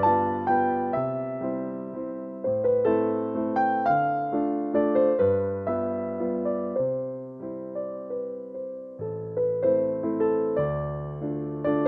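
Background music: a gentle solo piano piece, with single melody notes struck and left to fade over sustained bass notes.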